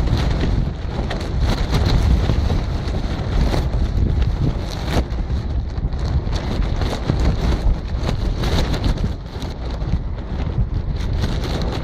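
Strong gusty wind buffeting the microphone as a heavy, low rumble, with irregular crackles and clicks throughout.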